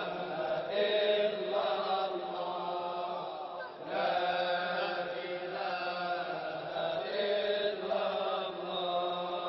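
Sufi dhikr chanting: repeated vocal phrases over a steady low drone, between the lead singer's lines.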